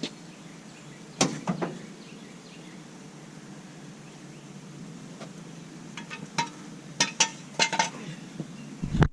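Scattered metallic clinks and knocks over a steady outdoor hiss: a couple about a second in, then a quicker run of ringing clinks between six and eight seconds in.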